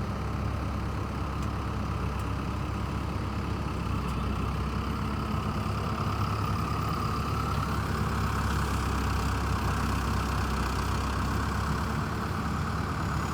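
Heavy diesel engine of a hydraulic excavator running steadily. About seven seconds in it grows a little louder and higher, as if taking on more load or revs.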